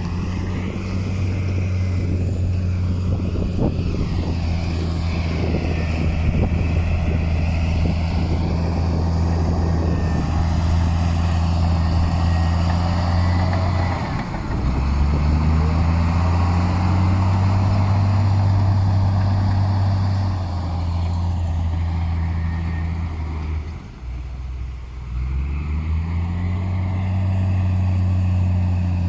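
Heavy diesel engine of earthmoving machinery running steadily under load. It twice drops off briefly and then revs back up with a rising pitch, with knocks and rattles in the first several seconds.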